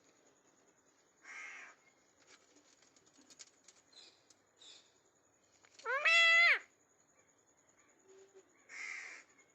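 Ringneck parrot calling: a raspy screech about a second in, a few soft clicks, then one loud shrill call that rises and falls in pitch, and another raspy screech near the end.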